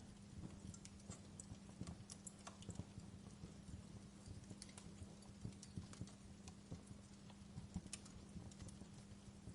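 Wood fire in a fireplace crackling faintly, with irregular small pops and snaps, over a steady low hum.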